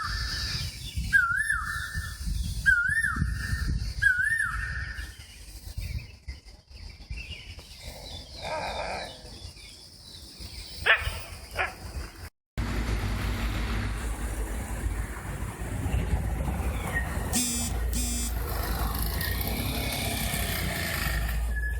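An animal call, a short rising note held about a second, repeated four times about a second and a half apart, followed by scattered quieter sounds. After a sudden cut, a steady low noise.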